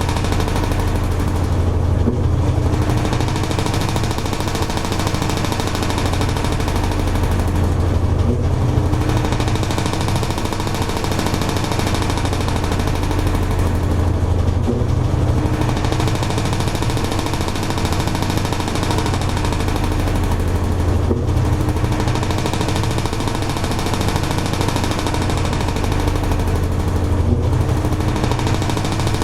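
Toshiba AW-42SEE4 fully automatic top-loading washing machine agitating a load in water: the motor hums steadily under churning, sloshing water. About every six seconds there is a short lull as the pulsator changes direction.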